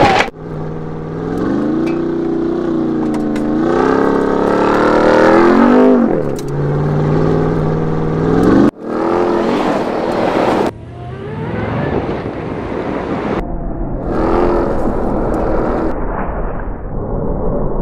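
Ram 1500 TRX's supercharged 6.2-litre V8 revving up and down and accelerating, heard in several short clips that cut off suddenly; the later part is a rougher, steadier driving sound.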